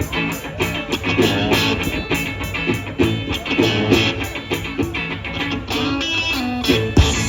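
Live blues-rock: a guitar strumming the instrumental intro of an upbeat song in a steady rhythm.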